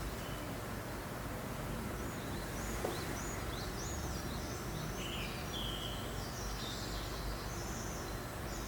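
Steady breeze noise with small birds chirping high and brief, the calls coming thickly from about two seconds in until near the end.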